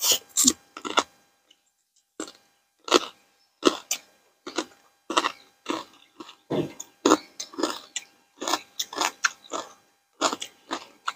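Close-miked chewing of green papaya salad with rice noodles: irregular wet mouth sounds, about two a second.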